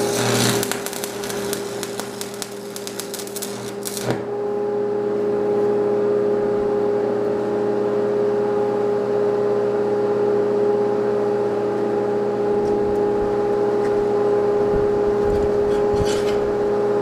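An electric welding arc crackles for about the first four seconds and cuts off sharply. Under it and after it, the welding machine hums steadily.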